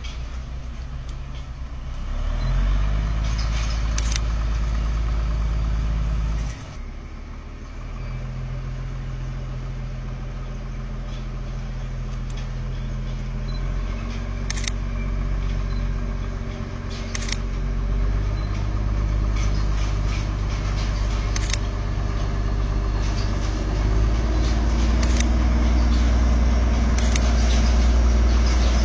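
Small narrow-gauge mountain-railway locomotive approaching, its engine running with a low steady hum that shifts pitch a few times and grows louder near the end. A few sharp clicks are heard along the way.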